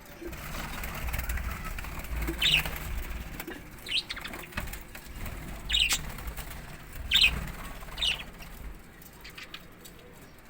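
A parrot giving about five short, sharp chirps spaced a second or more apart, over a low fluttering, rustling noise like wings flapping that dies away near the end.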